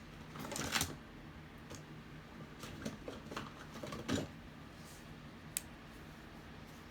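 Light clicks and rustles of small objects being handled, with a few louder rustles and a single sharp tick near the end.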